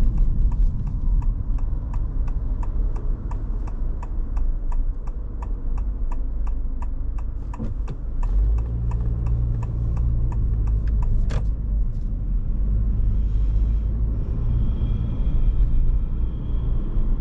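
Car turn-signal indicator ticking steadily at about three ticks a second inside a Honda ZR-V's cabin, over steady road and engine rumble. The ticking stops about eleven seconds in, as the turn is completed.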